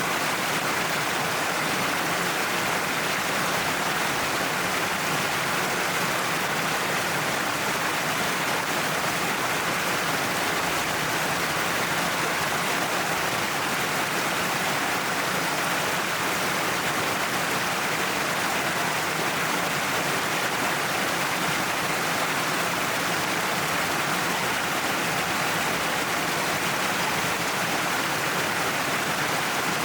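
Waterfall pouring down a cliff: a steady, unbroken rush of falling water.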